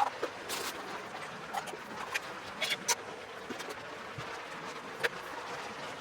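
Steady rain noise with a few light clicks and knocks scattered through it.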